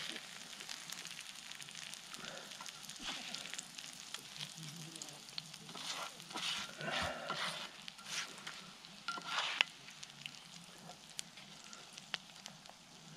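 Corned beef slices and red and green peppers sizzling in oil in a frying pan, with a slotted spatula scraping and clicking against the pan as the food is lifted out, in several louder bursts toward the middle.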